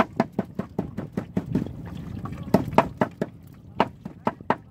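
A quick run of sharp knocks, about five a second, that stops for about a second near the middle and then starts again.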